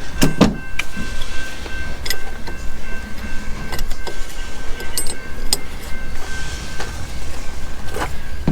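Scattered metal clinks and knocks of tools and parts being handled, over a steady low hum and a thin steady high tone.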